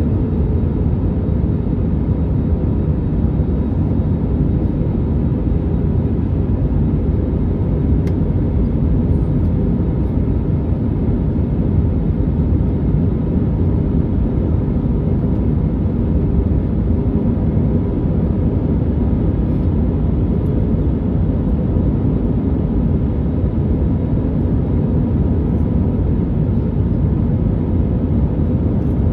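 Steady cabin noise inside an Airbus A321neo airliner: a low, even rush of engine and airflow noise that does not change.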